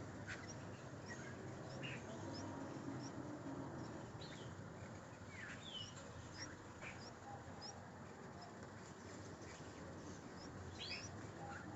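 Small birds calling: scattered short chirps and quick falling whistles, clustered at times, over a steady background hiss.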